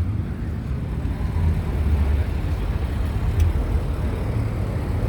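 Low, uneven rumble of a car engine running nearby.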